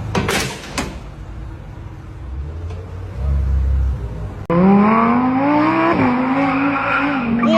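A car engine rumbling low, then, after an abrupt cut about halfway through, a car engine revving up with its pitch climbing, holding briefly and dropping near the end.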